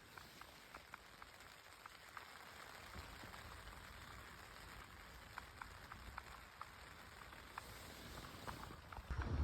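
Faint light rain: a low hiss with scattered drops ticking, a few a second.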